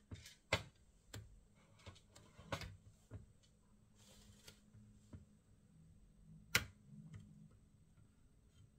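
Irregular clicks and light taps of small hard objects being handled, over a faint steady low hum. Two sharper knocks stand out, about half a second in and about six and a half seconds in.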